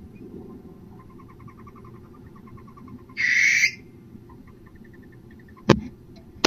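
Barn owls calling: a quick run of rapid ticking notes, then about three seconds in a short, loud, harsh screech. Near the end come two sharp knocks.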